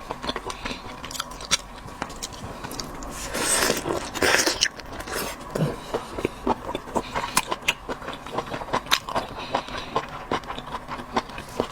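Close-miked mouth sounds of someone chewing a sea whelk: wet smacks and clicks throughout, with a louder noisy stretch about four seconds in.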